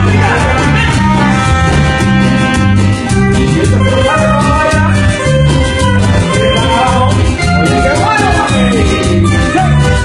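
Cumbia music played by a band: a repeating bass line and steady percussion under a lead line whose notes slide up and down.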